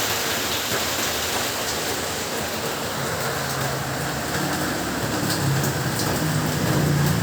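Heavy rain falling steadily, with scattered drop ticks. A low rumble builds from about halfway through.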